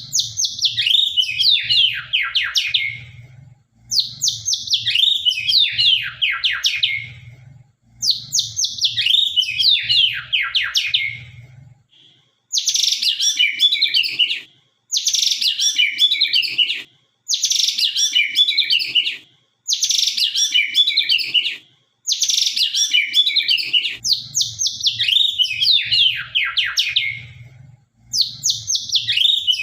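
White-rumped shama (murai batu) singing the same sharp phrase over and over, each a rapid run of falling whistled notes about two to three seconds long, with short pauses between phrases.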